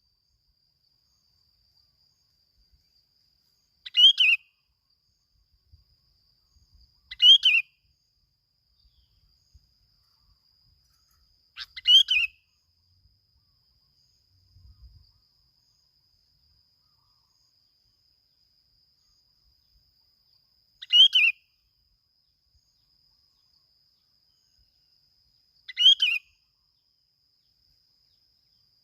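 A bulbul giving short, sharp calls one at a time, five in all, spaced several seconds apart, over a faint steady high whine.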